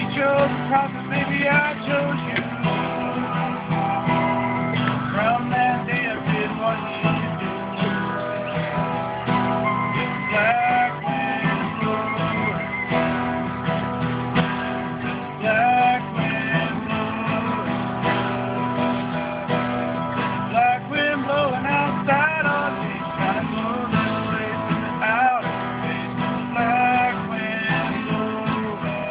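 Acoustic guitar strumming chords while a yellow plastic recorder plays the melody over it, with slides between notes.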